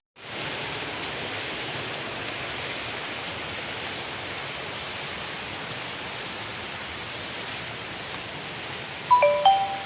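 Waterfall rushing in a steady roar of water noise. About nine seconds in, a quick run of short, loud, steady-pitched tones cuts through it briefly.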